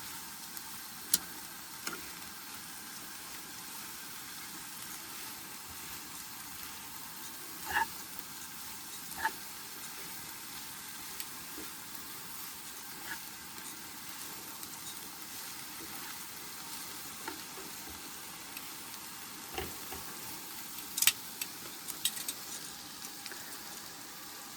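Shredded carrots and red cabbage sizzling steadily in butter and oil in a pan on a camp stove, with a few sharp clicks scattered through.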